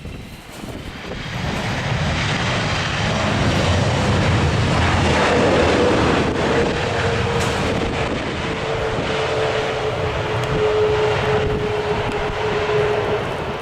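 Airbus A318 twin jet engines passing close: a loud, steady rushing noise that builds over the first couple of seconds, with a whining tone that appears about five seconds in and slowly sinks in pitch.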